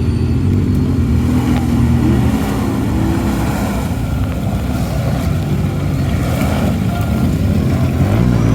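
Big-engined mud truck running hard under throttle in a deep mud hole, its engine note steady at first and then rougher and shifting in pitch.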